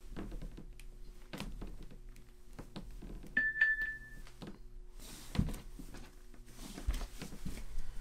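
An iPhone text-message alert chimes once, a short bright tone about three seconds in, as the phone lies on a wooden floor. Around it are scattered soft thumps and rustles from push-ups on the floor, over a low steady hum.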